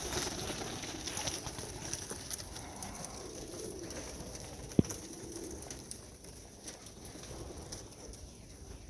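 Racing pigeons cooing softly in the loft, with scattered small rustles and one sharp click about five seconds in.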